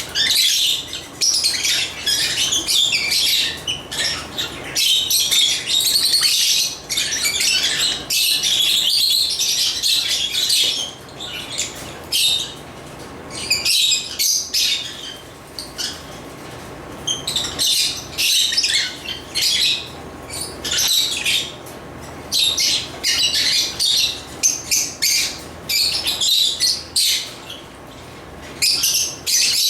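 Lovebirds chirping and chattering in rapid, high-pitched bouts, with short pauses between them.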